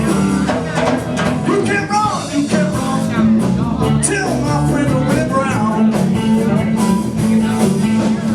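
Live blues band playing, with guitar over a bass line and a steady beat.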